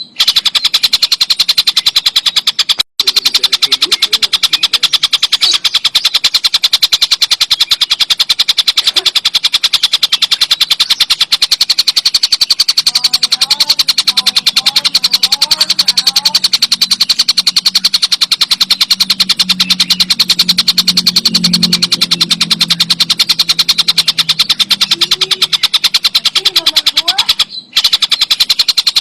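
Tengkek buto kingfisher giving a loud, continuous, very fast rattling trill, broken by brief pauses about three seconds in and near the end. A faint low hum sits under it in the middle.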